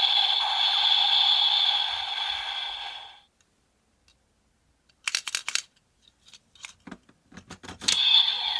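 A steady electronic toy sound with several held tones cuts off about three seconds in. It is followed by a run of sharp plastic clicks and scraping from toy parts being handled, before a loud electronic sound starts again near the end.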